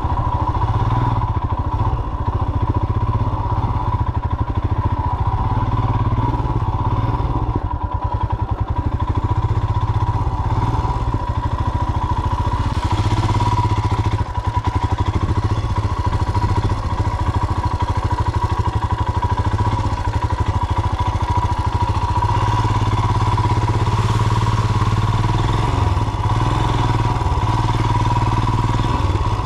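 Royal Enfield Himalayan BS6 motorcycle's single-cylinder engine running steadily as the bike is ridden off-road.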